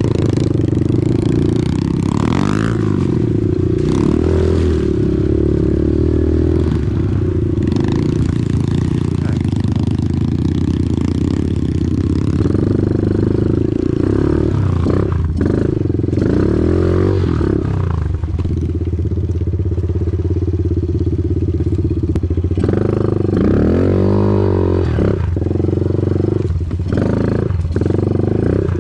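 Off-road vehicle engine running steadily for the whole stretch, its pitch rising and falling a few times as the throttle changes.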